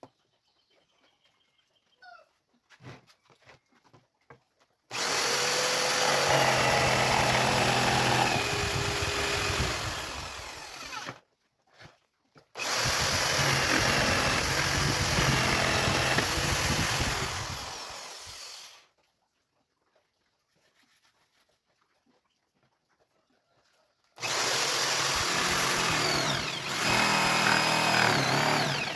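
Electric power tool running on wood in three runs of about five to six seconds each. Each run starts suddenly, and the first two wind down as it stops.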